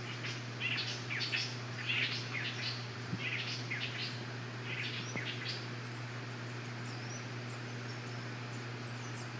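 Canaries chirping in quick bursts of song for about the first five seconds, then only a few faint, high chirps. A steady low hum runs underneath.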